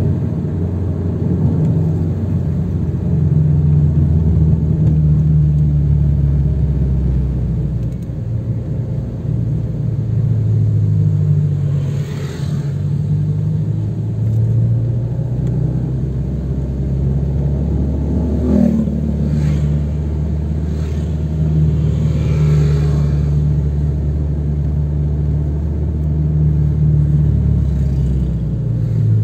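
Toyota 86's 2.0-litre flat-four boxer engine running at low revs, heard from inside the cabin, its low drone rising and falling as the car speeds up and slows in traffic. A few brief higher noises from passing traffic come and go.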